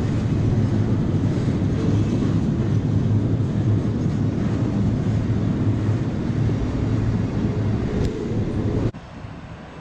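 Container freight train wagons rolling past on the rails, a steady loud rolling noise; it cuts off suddenly about nine seconds in, leaving a much quieter background.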